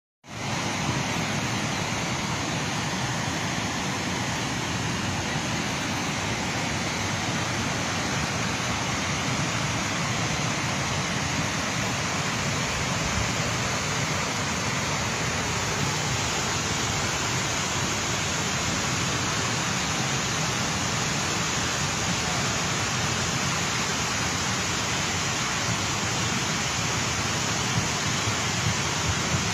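Flood-swollen river rushing steadily: a dense, unbroken wash of water noise with no separate splashes or knocks.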